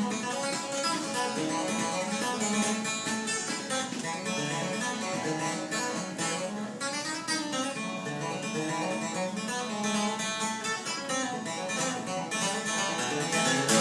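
Acoustic string band playing an instrumental passage: picked acoustic guitar with a bright, fast-picked string line over it, with no singing.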